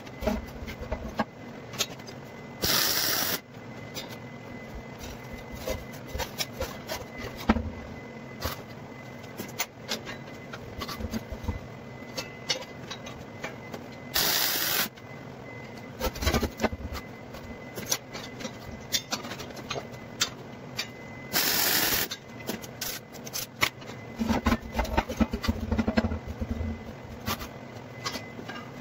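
Arc welding tacks on steel hoops: three short bursts of welding crackle, each under a second, spaced well apart, with scattered light clicks and knocks of metal being handled in between.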